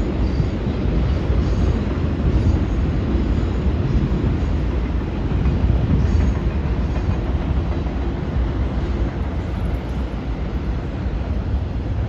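Freight train cars rolling across a bridge: a steady, low rumble of wheels on rail that fades slightly near the end.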